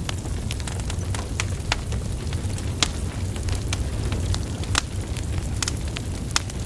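Wood fire burning logs: a steady low rumble of flames with frequent sharp crackles and pops at irregular times, a few louder snaps among them.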